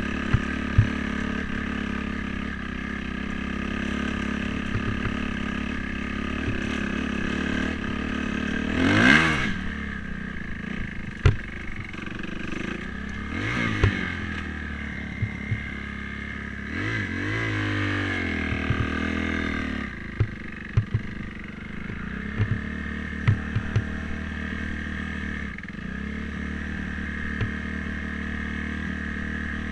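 Dirt bike engine running steadily, revving up and falling back three times: about a third of the way in, near the middle, and for a few seconds just past the middle. Scattered sharp clicks and knocks run through it.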